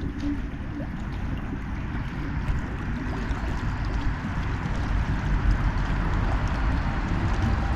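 Water lapping and gurgling, under a steady low rumble.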